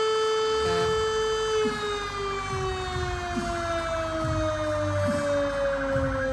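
A siren holding a steady tone, then slowly winding down in pitch from about two seconds in. A second, faster wailing siren is faintly heard at first, and a low rumble comes in under it.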